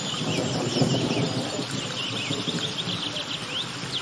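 Small birds chirping: many short, quick calls over low background noise.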